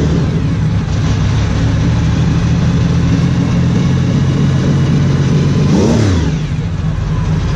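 Racing car engine running at a steady idle, blipped once about six seconds in with a quick rise and fall in pitch; the sound stops abruptly at the end.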